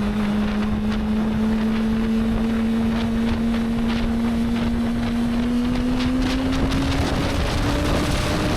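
Motorcycle engine running under way, its note rising slowly and smoothly as the bike gathers speed in gear, with wind rushing over the microphone.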